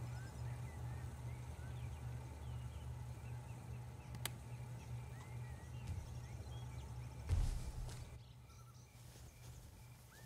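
Small birds chirping in short rising and falling calls over a low steady hum. There is a sharp click about four seconds in and a brief thump with a rush of noise a little past seven seconds, after which the hum drops away.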